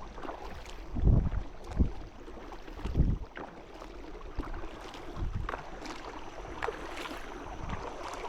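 Wind buffeting the microphone in a few low gusts on open water from a kayak, with scattered light clicks over a steady hiss.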